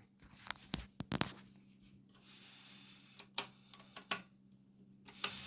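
A handful of scattered sharp clicks and light knocks over a faint steady low hum.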